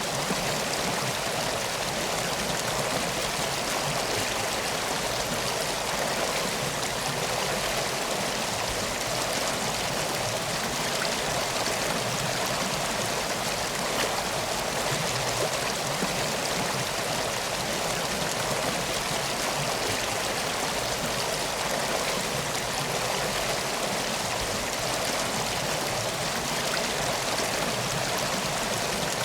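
Steady flowing water of a river, a constant even rush with faint scattered ticks.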